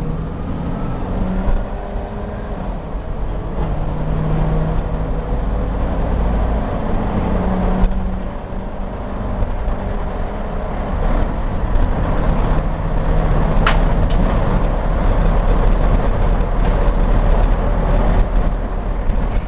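1994 Chevrolet box truck's 5.7-litre V8 engine and tyre noise while driving on the road and building up to about 55 mph, heard from inside the cab. The engine note shifts up and down, with a short dip about eight and a half seconds in and a sharp click near fourteen seconds.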